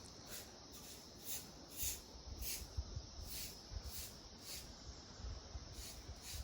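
Footsteps on a trail, a little under two steps a second, each a short scuffing crunch, with a low rumble underneath.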